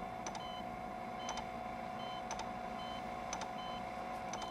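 Operating-room heart monitor beeping, one short high beep about once a second, over a steady electrical tone.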